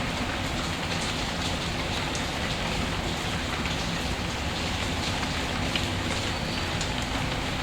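Steady rain falling, with faint short crackles and ticks scattered through it.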